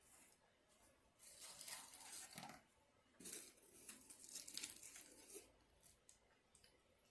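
Faint crinkling and rustling of a paper food wrapper being handled, in two stretches of a second or two each.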